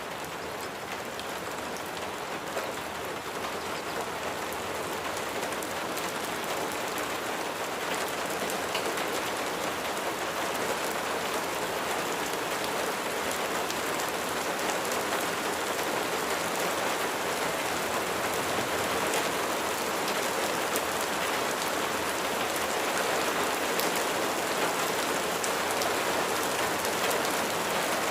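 Steady rain falling, an even hiss with scattered drop taps, swelling up over the first few seconds and then holding steady.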